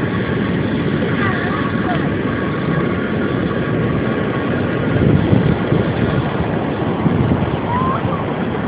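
Steady, loud rush of ocean surf and wind on a phone microphone, with a few short bird calls, once about a second in and again near the end.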